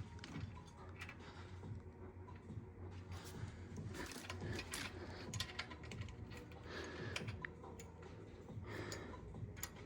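Faint, scattered light clicks and taps of small metal parts being handled while a drum-brake arm is greased and fitted with a washer and cotter pin, over a low steady hum.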